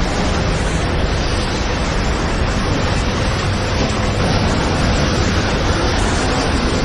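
Tornado-strength wind blowing steadily: a dense, even rushing noise, heaviest in the low end, with no let-up or gusts standing out.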